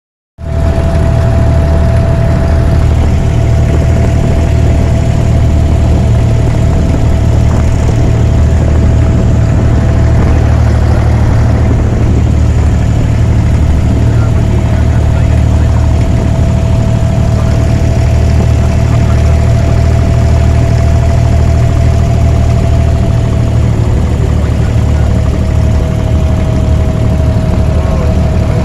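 Abra water taxi's diesel engine running steadily: a loud, even low drone with a thin steady whine above it, unchanged throughout.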